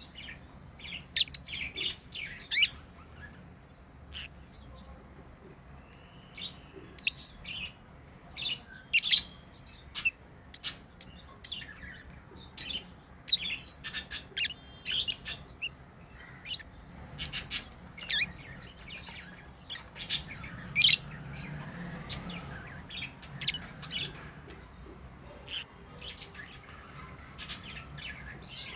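Pet lovebirds chirping: many short, sharp, high-pitched chirps at an irregular pace.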